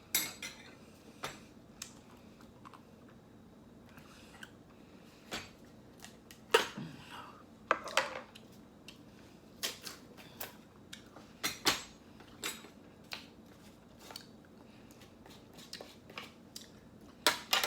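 Packaging and utensils being handled on a table: scattered sharp clicks, clinks and crinkles at irregular intervals.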